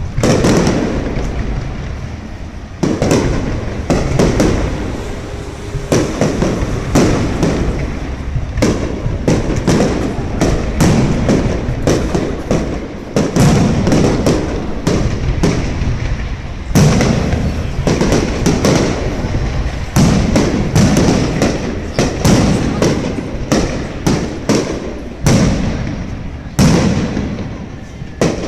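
Fireworks display: a rapid, continuous barrage of aerial shell bursts, with sharp bangs one after another and booming tails, and clusters of fast crackling reports.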